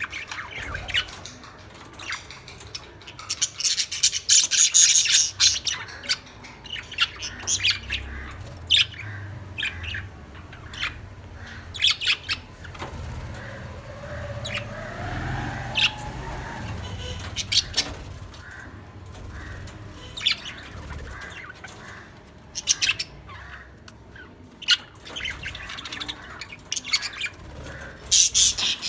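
Lovebirds chirping and squawking: short, sharp high-pitched calls in scattered bursts, densest about four seconds in and again near the end, over a low background rumble.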